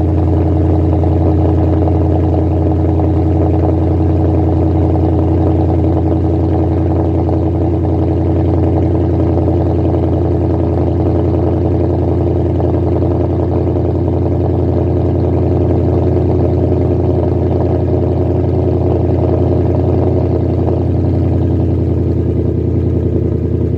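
2011 Audi S5 engine idling steadily after a cold start, its exhaust running without mufflers.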